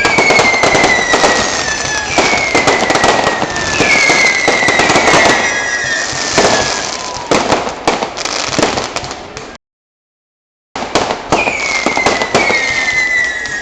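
Fireworks display going off: a dense run of bangs and crackles with several whistling fireworks, each whistle falling slowly in pitch. The sound cuts out completely for about a second around two-thirds of the way through, then the bangs and whistles resume.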